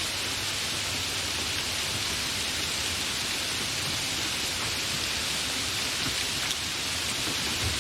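Steady, fairly heavy rain falling, an even hiss that holds at one level.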